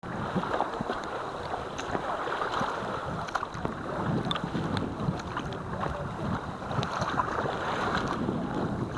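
Kayak paddling on open water: water splashing and sloshing around the paddle and hull, with wind buffeting the microphone and scattered small ticks of water.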